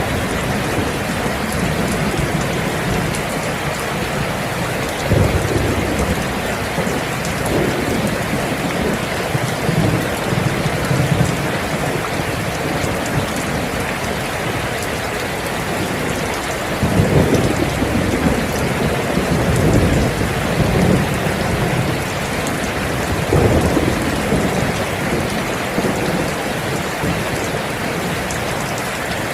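Steady rain falling, with several low rolls of thunder swelling and fading through it, the strongest about 17 seconds in.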